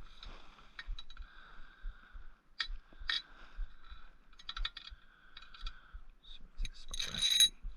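Small steel parts of a homemade bearing press (sockets, washers, nuts and a bolt) clicking and clinking against each other and against the swingarm as they are handled and fitted, with a louder metallic scraping rattle about seven seconds in.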